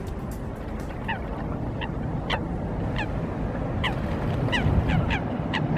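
Waterbirds calling: a run of short, downward-sliding calls, several a second at times, over a steady low rumble.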